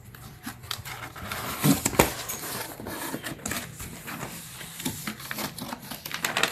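Handling noise as fireworks are moved about: irregular rustling and clicking, with one sharper knock about two seconds in.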